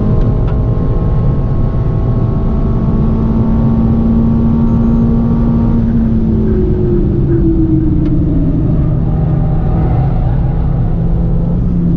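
Renault Mégane RS 280's 1.8-litre turbocharged four-cylinder engine pulling at steady high revs at speed, heard inside the cabin over dense road and wind noise. About six seconds in, the driver lifts off and the engine note falls away as the car slows for the next corner.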